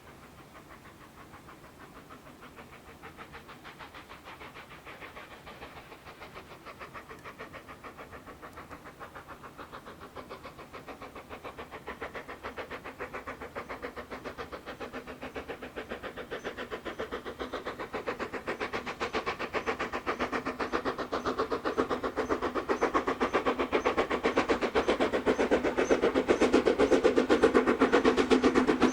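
Steam locomotive approaching under power, its rapid, even exhaust beats growing steadily louder.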